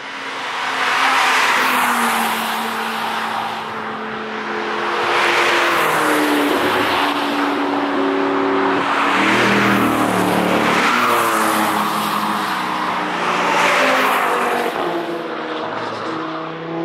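Cars passing at speed one after another, about four in all, each engine note rising and falling as it goes by, with tyre noise.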